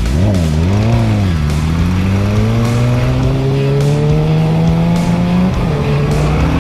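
Motorcycle engine blipped twice in quick succession, then pulling under throttle with its pitch rising steadily for about four seconds. The pitch drops suddenly near the end at a gear change. Background music with a steady beat plays underneath.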